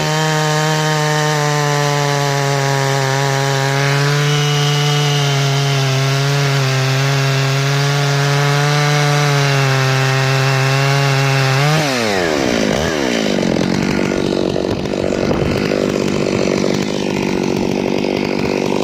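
Zimani two-stroke petrol chainsaw held at full throttle, a steady high pitch, while it saws through wood. About twelve seconds in the engine speed drops sharply, dips twice, then settles into a lower, less even running.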